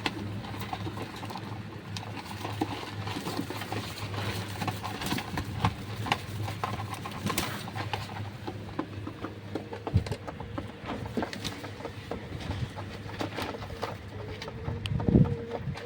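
Domestic pigeons pottering about: scattered clicks, taps and patter from feet, pecking and wings, with low cooing toward the end.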